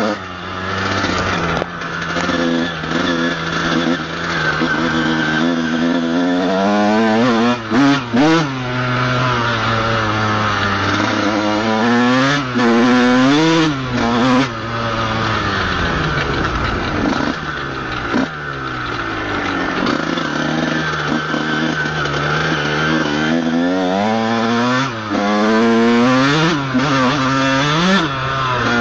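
Honda CR125's 125cc two-stroke single-cylinder engine, heard from the rider's helmet, revving up and down over and over as the bike is ridden along a dirt trail, with sharp throttle blips about eight seconds in and again around thirteen to fourteen seconds. The bike is running on a burnt clutch.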